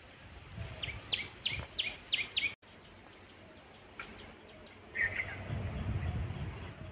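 Birds calling: a quick run of about six descending notes in the first couple of seconds, then a short twittering call about five seconds in, over a faint high insect ticking. Low rumbling noise comes up in the last two seconds.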